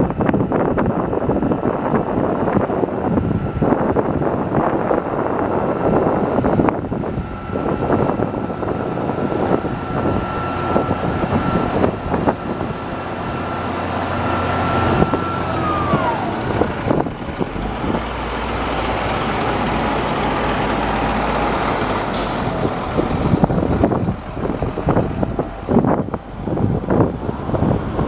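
International 4900 grain truck's diesel engine running, with a steady whine that slides down in pitch about halfway through. A short hiss of air comes about three-quarters of the way through.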